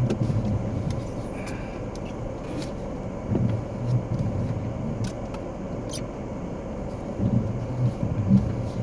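A taxi cab running, heard from inside the cabin: a steady low rumble with a few faint, scattered clicks.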